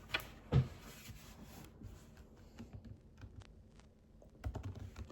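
Irregular light clicks and taps, like typing or handling small objects, with two louder knocks in the first second and a quick run of clicks near the end.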